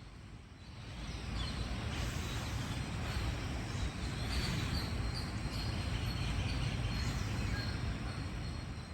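Passenger train running past, a steady rolling rumble that builds over the first couple of seconds and eases near the end, with insects chirping faintly.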